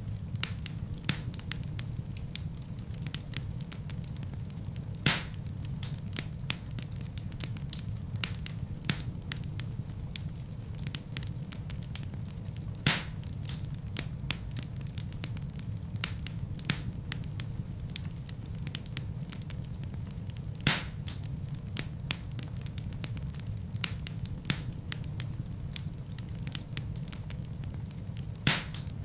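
Wood fire burning in a fireplace: a steady low rumble of flames with frequent small crackles and a few louder pops about every eight seconds.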